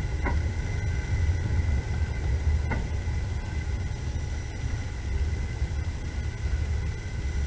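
Passenger train running, heard from inside the carriage: a steady low rumble, with two faint brief clicks about two and a half seconds apart.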